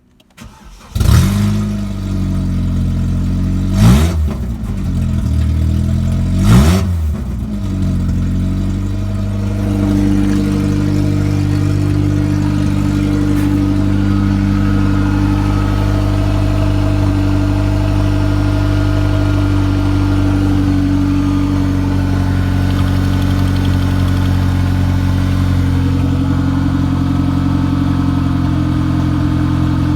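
Opel X18XE1 1.8-litre 16-valve four-cylinder petrol engine starting about a second in, revved briefly twice, then idling steadily.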